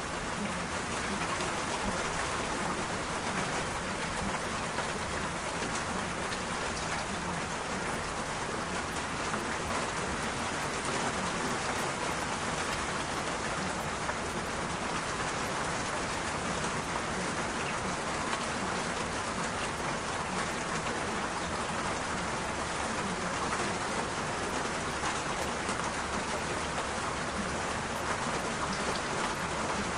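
Steady rain falling, an even patter that holds level throughout without breaks.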